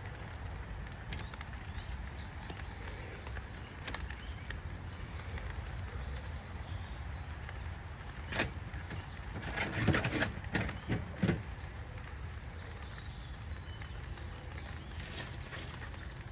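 Steady low background rumble, with a short run of knocks and rattles about eight to eleven seconds in: handling noise while chicken thighs are set into a foil-lined pan.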